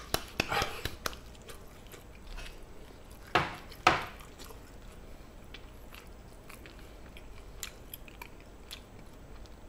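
Close-miked chewing and mouth sounds of a man eating gochujang-marinated chicken, with a few short sharp clicks near the start and two louder smacks about three and a half and four seconds in; the rest is quieter chewing.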